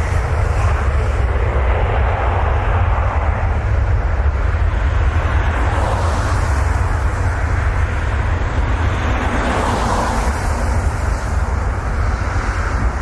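Jet airliner engines running, with a heavy low rumble under a broad hiss that grows stronger from about halfway through.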